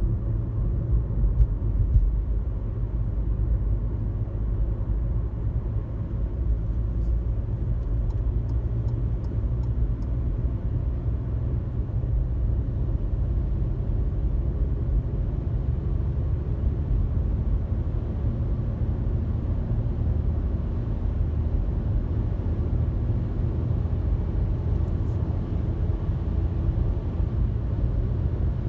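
Steady low road rumble inside a moving car's cabin at highway speed: tyre and engine drone, with a few faint light ticks about seven to ten seconds in.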